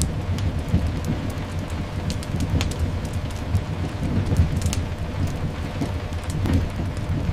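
Layered rain ambience: steady rain over a continuous low rumble, with scattered sharp crackles.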